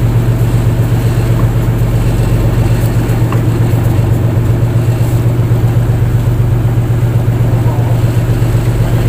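Fishing boat's engine running at a steady speed, a constant low hum with no change in pitch.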